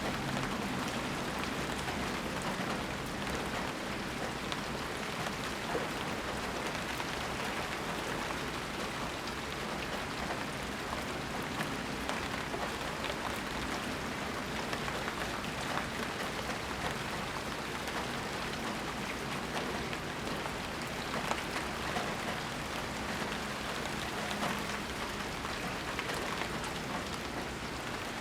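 Steady rain falling, an even hiss with many small drop ticks on surfaces.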